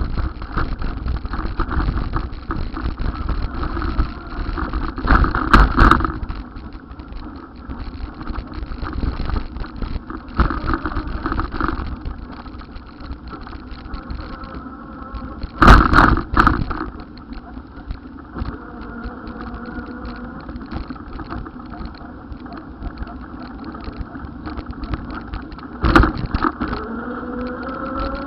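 Steady road and vehicle noise, with three loud short blasts about six, sixteen and twenty-six seconds in. Near the end an engine rises in pitch.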